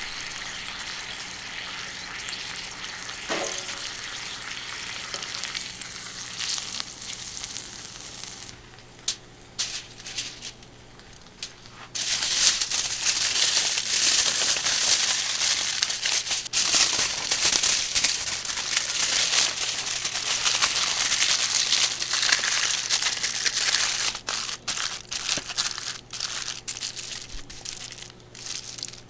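Steak sizzling on a hot iron griddle: a steady hiss, then a quieter spell with scattered pops, then about twelve seconds in the sizzle suddenly turns much louder and denser, breaking into crackly spurts near the end.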